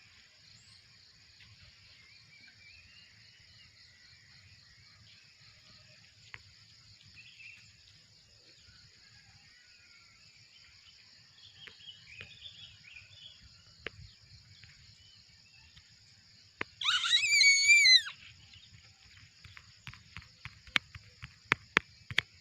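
A steady high-pitched insect-like drone, broken near the end by a single loud, wavering, high-pitched animal call lasting about a second, then a quick run of sharp clicks.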